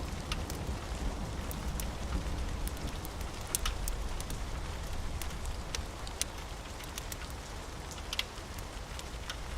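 Steady rain mixed with a crackling wood fire: an even hiss of rain over a low rumble, with sharp pops scattered irregularly throughout.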